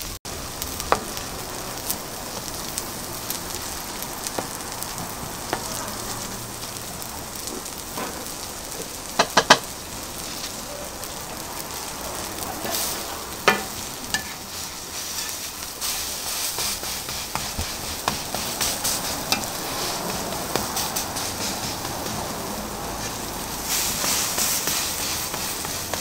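Egg-and-shredded-cabbage omelette patties frying on an oiled flat-top griddle, with a steady sizzle. A plastic spatula taps and scrapes against the griddle, with a few sharp clicks about nine and thirteen seconds in. The sizzle grows louder near the end once the patties have been turned.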